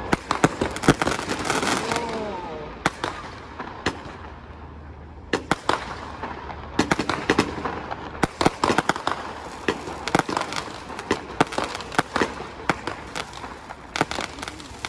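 Consumer fireworks going off in quick succession: many sharp bangs and crackles in clusters, with a lull about three to five seconds in.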